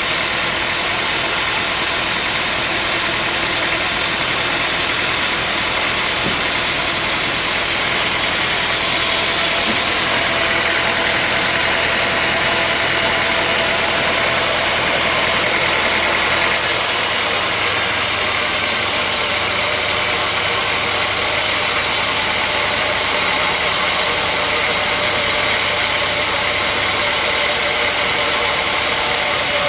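Engine-driven sawmill machinery running steadily, a continuous engine drone with a noisy, even wash of sound that shifts slightly about halfway through.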